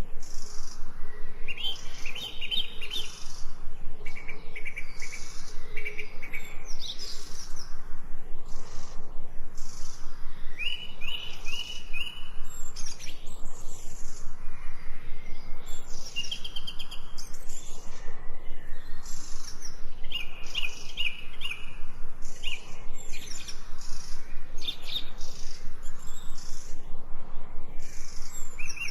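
Songbirds chirping and singing, with short rapid trills and quick high chirps overlapping throughout.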